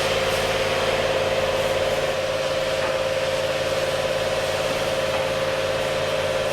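Power tool cutting metal, running with a steady whine and hiss that holds unchanged throughout.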